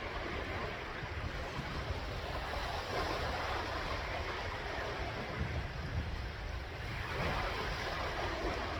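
Sea waves washing in, a steady wash of surf that swells twice, with wind rumbling on the microphone.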